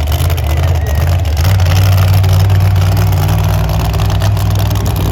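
Monster truck engine running loud and steady with a deep note that steps up slightly about a second and a half in.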